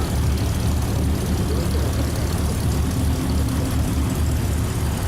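1957 Chevy stepside pickup's engine running at low speed: a steady low rumble.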